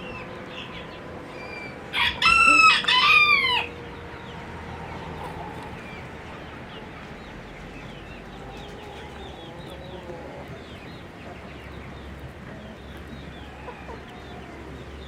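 A rooster crows once, about two seconds in: a short first note, then two longer ones, the last dropping in pitch at the end. Chickens keep up soft, scattered calls behind it.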